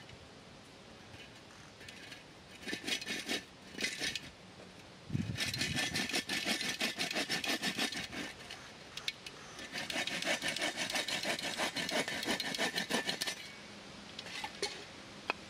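Wood being worked with rapid back-and-forth strokes, a dry scraping rasp. Two short bursts come first, then two long runs of several seconds each.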